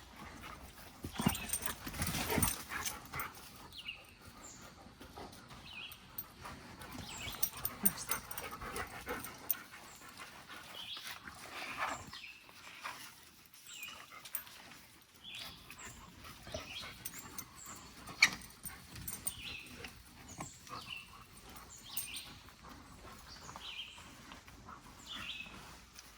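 Dogs moving about and making small noises as they nose around scent items. Short high chirping calls recur about once a second through the second half.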